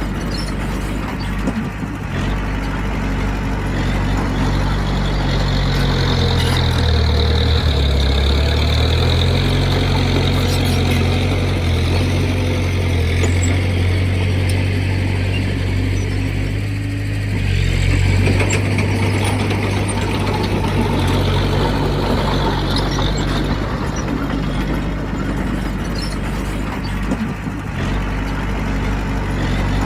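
Diesel engine of heavy earthmoving machinery running continuously, its pitch and loudness shifting as the load changes, with occasional light metallic clicks.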